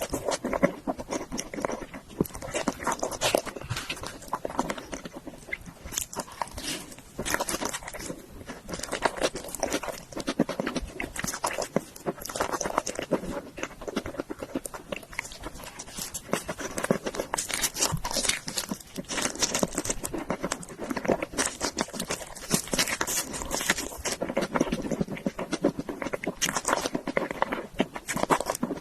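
A person eating, continuous chewing and biting with many small wet crackles and crunches, as in a mukbang eating-sound recording.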